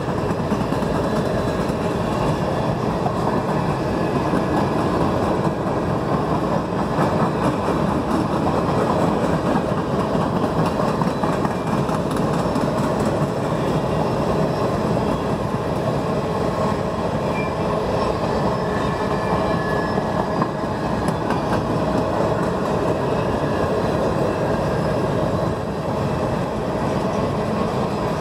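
CN freight train rolling past close by: a steady, continuous rumble of steel wheels on rail as the freight cars go by.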